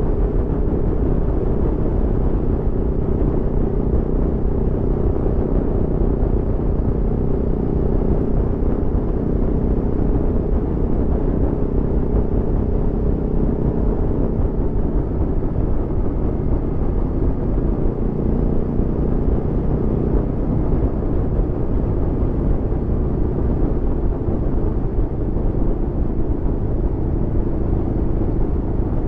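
Aprilia Tuono V4 motorcycle's V4 engine running at a fairly steady engine speed while riding, heard from on the bike, with a low rumble.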